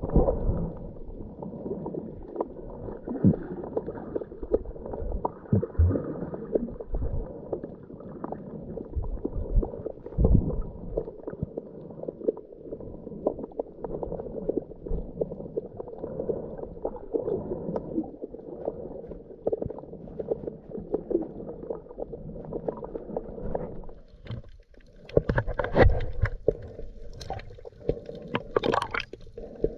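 Muffled underwater gurgling and bubbling from a scuba diver's regulator and exhaled air, heard through a GoPro's waterproof housing, with louder, brighter bubble bursts near the end.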